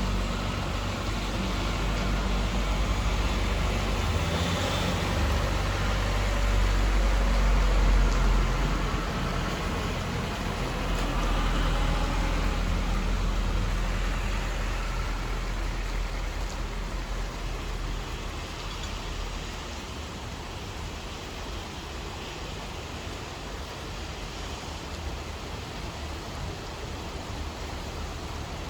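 Steady rain falling, an even hiss throughout. A deep low rumble swells under it, loudest about eight seconds in, and dies away by about halfway.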